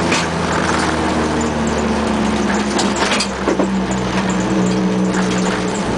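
Ford Escort RS2000 rally car's four-cylinder engine running at a steady speed, heard from inside the cabin, over the noise of tyres on a gravel road. A few short knocks, likely stones hitting the car, come about halfway through.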